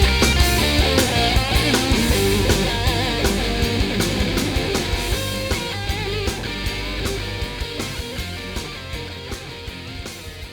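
Instrumental rock band outro with guitars, bass and drums keeping a steady beat, fading out gradually to near its end.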